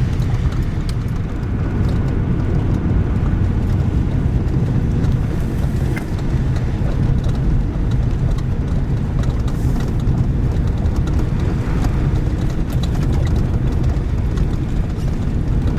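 1971 International 1890 plow truck driving through mud and slush: a steady, heavy low engine and road rumble with a few light knocks.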